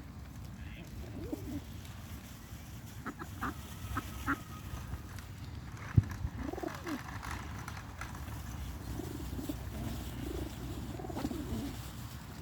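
Birds calling: repeated low calls that rise and fall, with a few short higher chirps a few seconds in. A single sharp click about six seconds in is the loudest sound.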